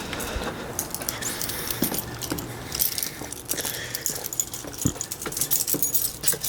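Keys jangling, with scattered small clicks and knocks throughout.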